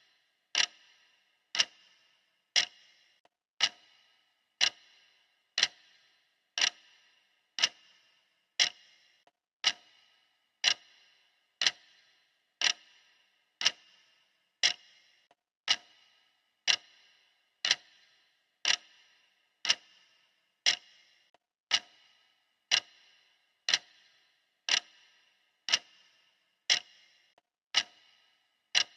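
Clock ticking steadily, one sharp tick about every second, each dying away quickly: the steady tick of a countdown timer.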